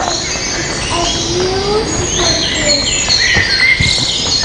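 Birdsong: many overlapping high chirps and whistles, a forest chorus.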